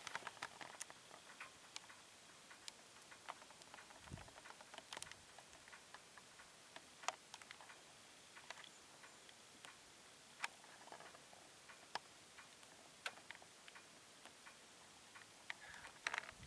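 Near silence broken by scattered faint clicks and ticks at uneven intervals, with one soft low thump about four seconds in.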